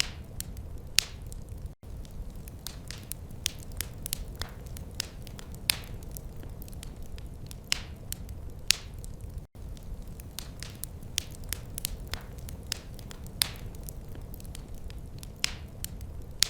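Wood fire crackling: irregular sharp pops and snaps over a low, steady rumble, broken by two very short dropouts.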